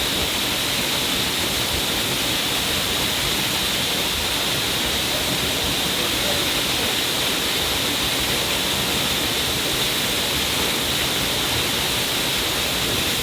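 Water falling down a cliff face and splashing: a steady, even rush with no breaks.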